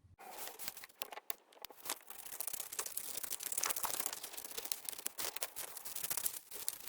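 Scissors cutting through paper, a steady crackle of small snips with the paper rustling as it is turned in the hand.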